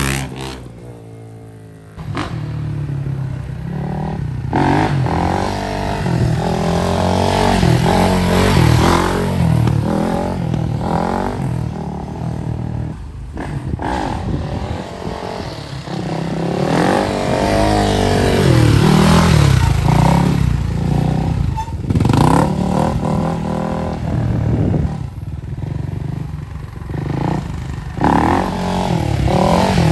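Kawasaki KX450F dirt bike's single-cylinder four-stroke engine being ridden, revving up and falling back over and over as the throttle is worked. It is briefly quieter about a second in, then comes back loud.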